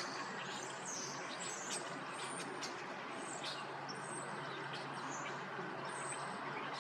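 Small birds chirping in many short, high calls over a steady background hiss.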